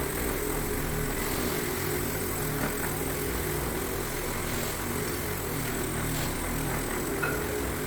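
Orbot orbital floor-cleaning machine running steadily on a hardwood floor, a constant motor hum during deep cleaning.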